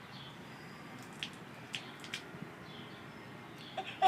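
Water from a garden hose running as a faint, steady hiss, with a few sharp drips or splashes.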